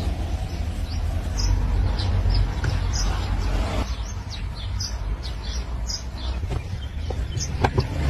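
Small birds chirping repeatedly in short high notes over a steady low rumble, with a few sharp knocks near the end.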